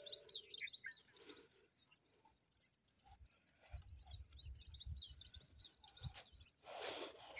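Small birds chirping in quick, repeated high notes near the start and again in the second half. A low rumble runs under the middle stretch, and a short noisy burst comes near the end.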